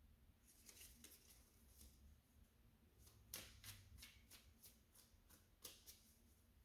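Tarot cards being shuffled and handled: faint papery flicks and snaps, a loose cluster in the first two seconds and a few sharper snaps from about three seconds in.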